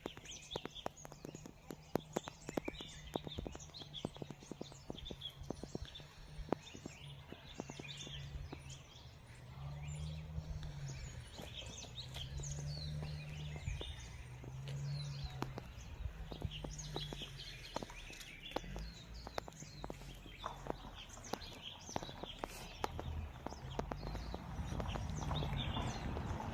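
Outdoor ambience of many small birds chirping, with scattered sharp clicks and a low hum that swells and fades every couple of seconds.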